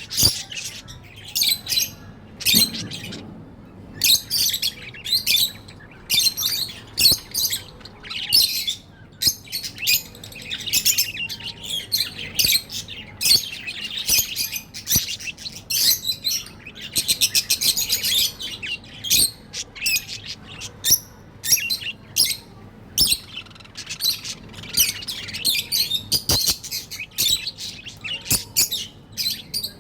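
Pet budgerigars chirping and chattering in a dense stream of short high calls, with a fast trilling run just past the middle.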